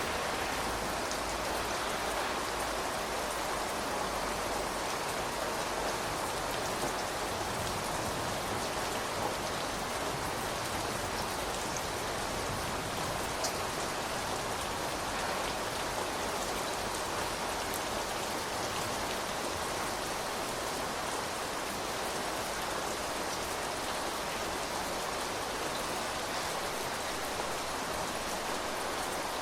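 Steady rain falling, with scattered individual drop ticks through the even hiss.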